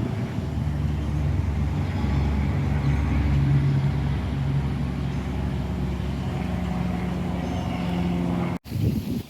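A steady, low engine-like drone that cuts off suddenly near the end.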